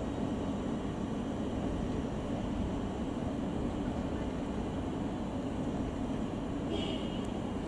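Steady low rumble of a distant Class 455 electric multiple unit running slowly towards the platform over the curved junction tracks. About seven seconds in there is a brief high-pitched squeal.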